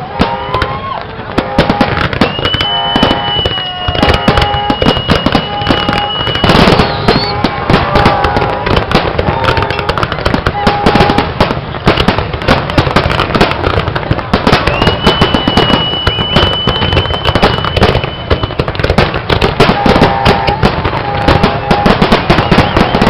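Fireworks display: a dense, continuous run of bangs and crackles. Twice a long high whistle is held for a few seconds over them.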